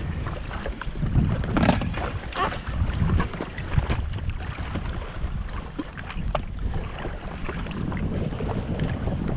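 Wind buffeting the camera microphone over the water, with short splashes against a jetski.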